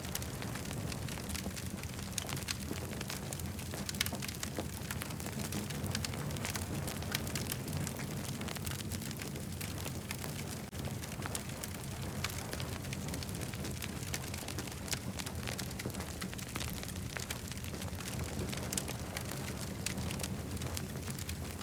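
Campfire burning: a steady stream of small crackles and pops over a low, even rumble.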